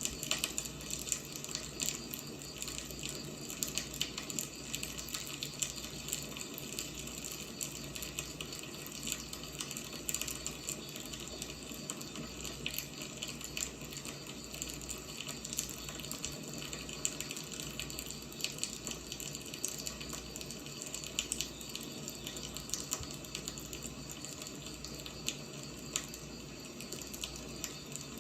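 Firewood burning, with irregular crackles and pops over a steady hiss.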